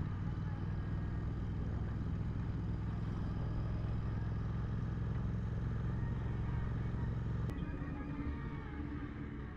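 Motorcycle engine running steadily at cruising speed under wind noise. About three-quarters of the way through the engine note drops as the bike slows, with a single sharp click at that moment.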